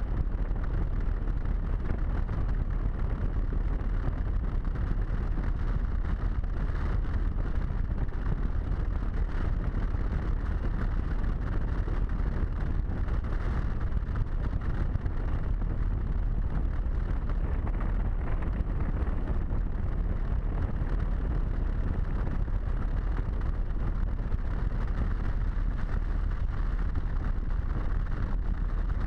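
Steady rush of wind over a helmet-mounted camera on a moving Harley-Davidson motorcycle, with the engine running underneath at a constant pace.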